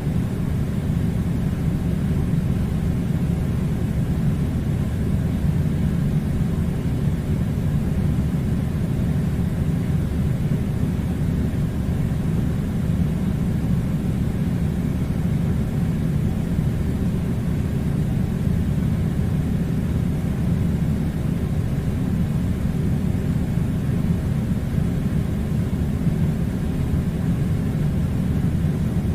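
Air conditioner running: a steady low rumble of blowing air that does not change.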